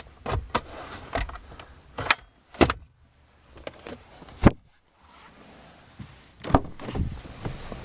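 A series of sharp plastic clicks and knocks, about half a dozen, spread over several seconds with quiet gaps between them: a car's rear-seat pass-through and interior trim being opened and handled.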